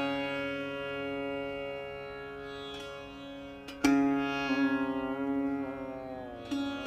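A setar being played slowly. A long ringing note fades, a new note is plucked about four seconds in, and the pitch slides down near the end.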